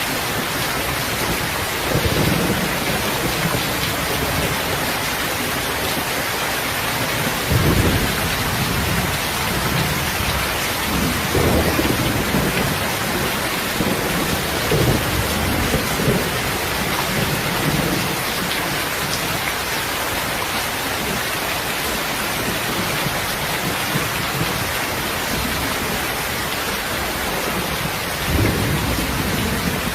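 Steady, heavy rain falling, a dense even hiss. Short low rumbles rise out of it several times, strongest about a quarter of the way in and again near the end.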